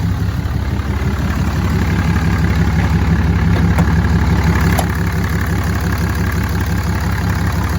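2008 Dodge Ram 3500's 6.7-litre Cummins turbo-diesel idling steadily.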